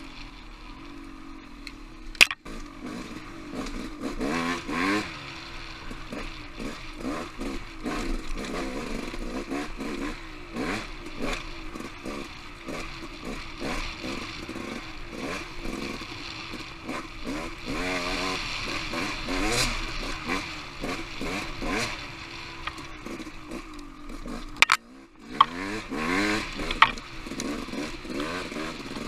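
Off-road motorcycle engine revving up and down as it is ridden over rocky singletrack, with constant rattling and clatter. A few sharp knocks stand out, the loudest about two seconds in and near the end.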